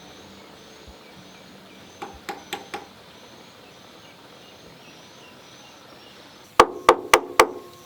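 Hammer blows: four light taps about two seconds in, then four hard, ringing strikes near the end. Faint high chirping goes on underneath.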